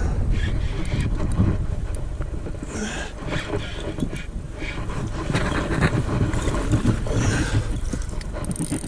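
Wind buffeting the microphone as a steady, uneven rumble on open water, with short bursts of higher hiss now and then.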